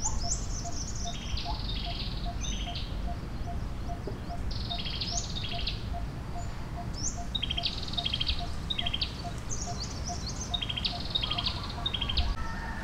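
Wild birds singing: short, rapid, high song phrases repeated every second or two, over a steady low pipping about three times a second and a low background rumble.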